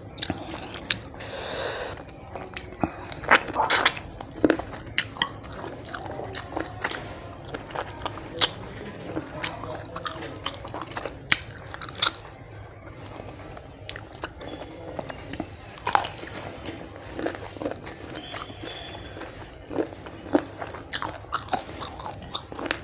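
Close-miked eating sounds: rice and fish curry eaten by hand, with chewing, lip smacks and many irregular sharp wet mouth clicks.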